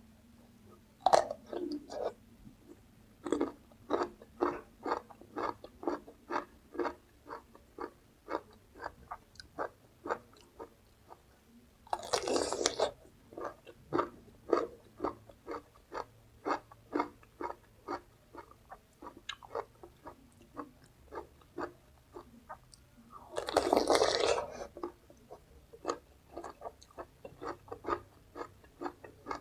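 Close-up chewing of crunchy raw vegetables, about two chews a second, with two longer, louder crunching bites, one near the middle and one about four-fifths of the way through.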